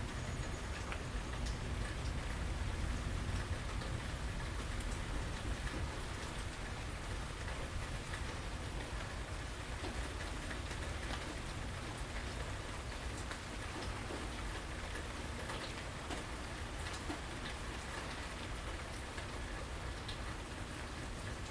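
Steady rain falling on surfaces around a porch, a dense patter of drops with a low rumble underneath.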